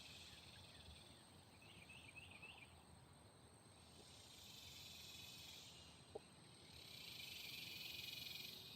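Near silence with insects buzzing faintly, the buzz swelling twice. A short run of chirps comes about two seconds in, and a single faint click follows a little after six seconds.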